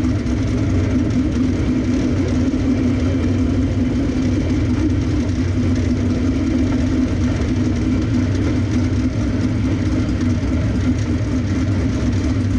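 Race car engine running steadily at low revs while the car rolls slowly through the pits at walking pace, heard from inside the cockpit.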